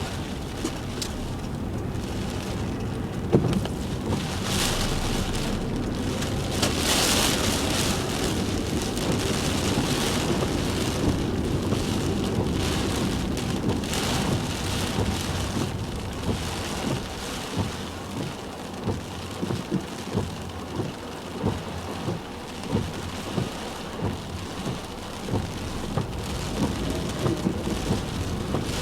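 Heavy typhoon rain pelting a car, a dense steady downpour with louder gusts of spray. In the second half it is broken by a run of regular soft thuds, about one a second.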